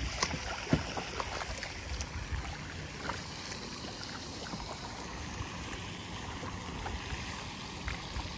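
Kayak on the water with steady low wind and water noise, and a few light knocks and clicks against the hull, the loudest one just before a second in.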